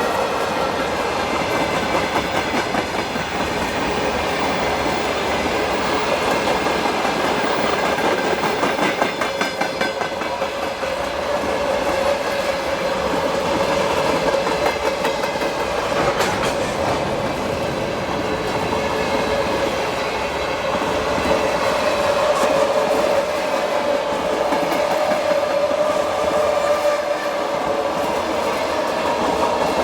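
Freight train wagons rolling past, their wheels clattering rhythmically over rail joints. A steady whine runs beneath, growing stronger from about halfway through.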